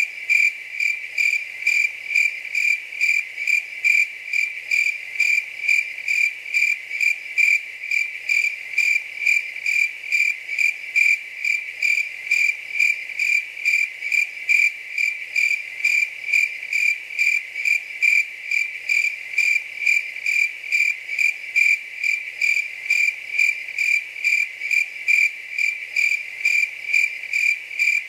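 A cricket chirping steadily in an even, unbroken rhythm of about two high-pitched chirps a second.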